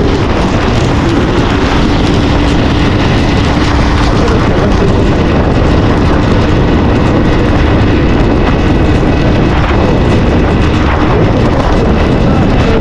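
Heavy, steady wind noise buffeting the microphone on a moving CFMoto 450SR motorcycle. The bike's parallel-twin engine runs at a steady, faint hum underneath.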